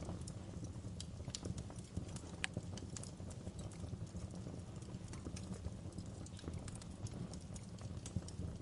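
Wood fire crackling in a fireplace: irregular sharp pops and snaps over a steady low rumble, with one brighter pop about two and a half seconds in.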